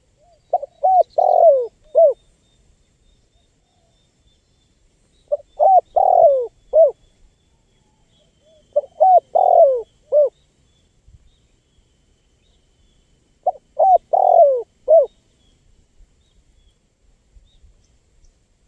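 Spotted dove (tekukur) cooing: four phrases a few seconds apart, each of about five short coos, the middle one longer with a falling pitch.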